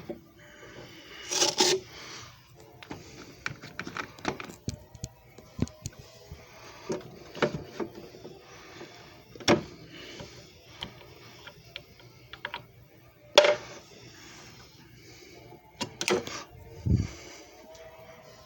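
Irregular clicks, taps and knocks of hard plastic parts being handled, a few of them sharper and louder, with faint music underneath.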